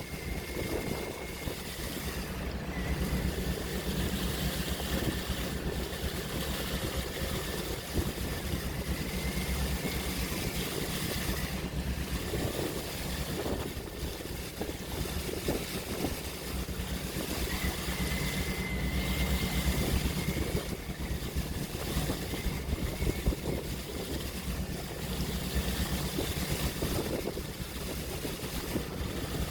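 Open-sea waves washing steadily, with wind and a constant low hum underneath.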